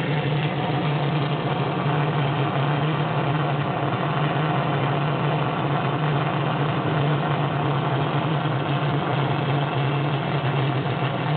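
Steam traction engine's pressure relief valve venting off excess steam: a loud, steady rush with a low hum beneath it, unbroken throughout.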